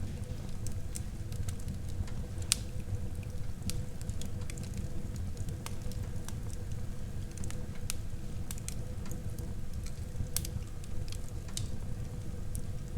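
Wood fire burning in a fireplace: a steady low rumble of flames with irregular sharp crackles and pops from the burning logs, a louder pop about two and a half seconds in.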